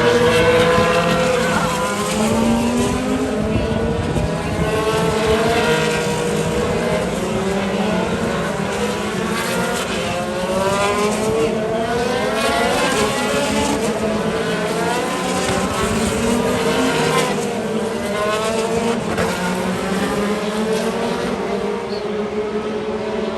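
IndyCars' twin-turbocharged V6 engines as a pack of cars streams past one after another, their engine notes overlapping and each sliding up then down in pitch as it goes by.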